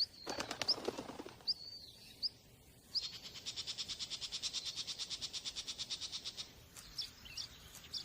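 Small birds calling: short high chirps, then from about three seconds in a fast, even trill of roughly nine notes a second lasting about three and a half seconds, followed by a few more chirps.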